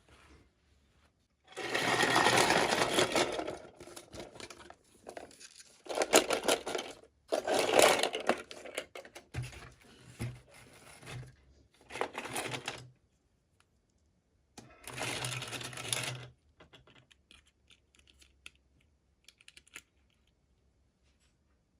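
Toy packaging being handled and opened: five bursts of scratchy rustling, each a second or two long, with small clicks and taps between them.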